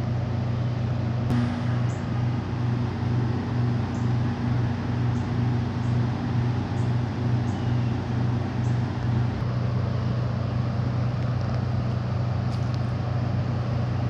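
A truck engine idling: a steady low drone that throbs about two to three times a second for the first half, then evens out.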